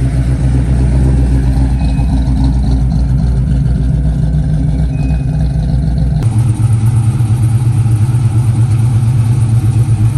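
A Ford Mustang's engine idling with a choppy, lopey cammed idle as it rolls in. About six seconds in the sound changes abruptly to a heavier, deeper engine note.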